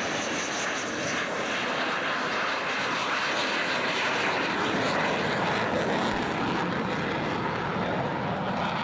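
Airplane engines running steadily as the aircraft flies past with its speed brake raised. A high thin whine fades in the first second or so under the broad, even engine noise, which swells a little mid-way.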